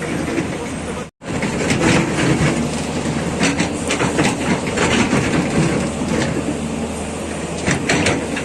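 Heavy vehicles rumbling with irregular clattering and knocking. The sound cuts out completely for a moment about a second in, then resumes.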